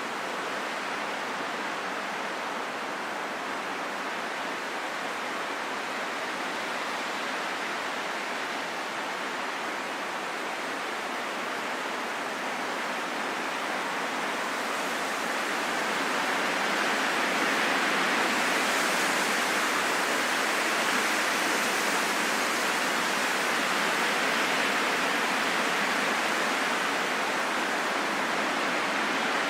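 Steady rushing wind with no whistling tones, swelling louder and brighter a little past halfway and holding there.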